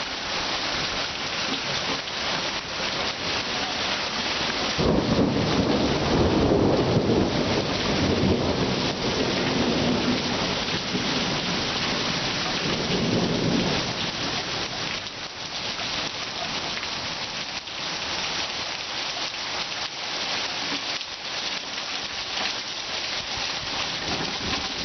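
Heavy monsoon rain pouring down steadily, with a long rumble of thunder starting about five seconds in and fading out about ten seconds later.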